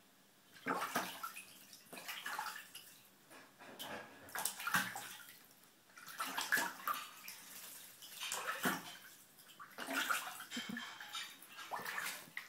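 Mallard duckling splashing and paddling in shallow water in a bathtub, in a string of irregular splashes every second or two.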